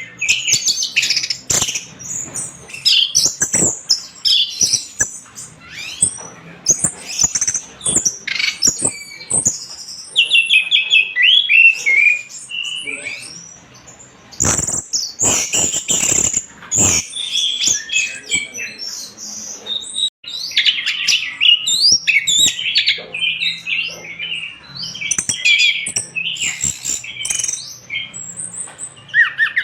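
Orange-headed thrush singing a continuous, fast, varied song of high whistled and chattering phrases, with a few sharp clicks among them.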